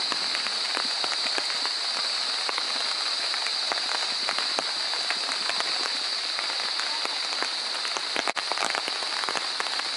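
Steady rain falling, a constant hiss with scattered drops ticking, briefly cut off just past eight seconds in.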